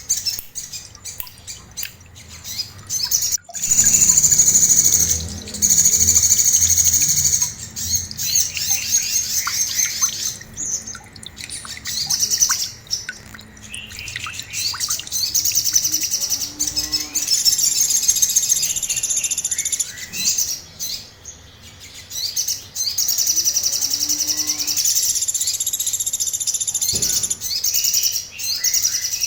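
Sogon (crimson sunbird) singing in an agitated ('emosi') state: long spurts of very fast, high-pitched twittering trills broken by short pauses.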